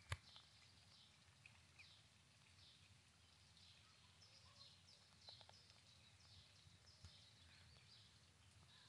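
Faint outdoor ambience: small birds chirping in the distance, short calls repeating throughout, with one sharp click just at the start.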